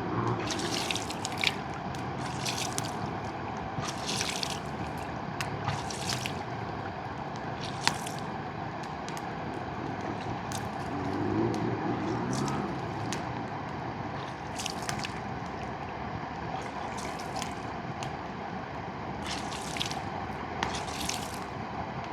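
Mountain river running steadily, with short splashing gurgles every second or two and one sharp click about eight seconds in.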